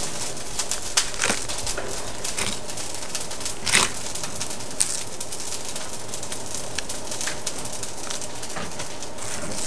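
A large knife cutting and scraping a raw grouper fillet on a wooden cutting board, with scattered short clicks and scrapes and a sharper one near the middle. Birds call in the background.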